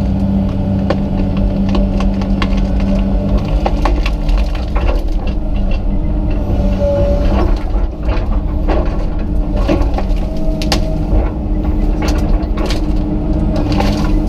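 Komatsu PC200 excavator's diesel engine and hydraulics working under load while wood and roots crack and snap again and again, from about four seconds in, as a small tree is pulled out without digging around it.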